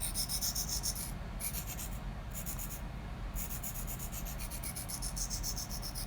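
Spyderco Lil Native's S30V steel blade scraping along a 1200-grit diamond sharpening plate in strokes, a gritty high hiss with short breaks in the first few seconds.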